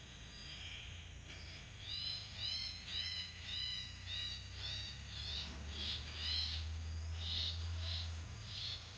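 A bird calling over and over, a quick run of short falling chirps starting about two seconds in, over a low steady hum.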